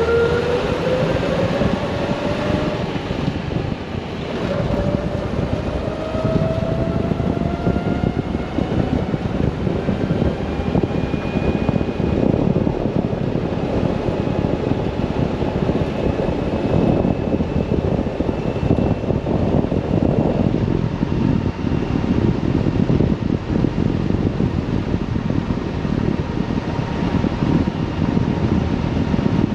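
1970 Toyota Land Cruiser's straight-six engine pulling through the gears, its pitch rising, dropping at a shift about four seconds in, then rising again. It then settles into steady cruising under heavy wind and road noise.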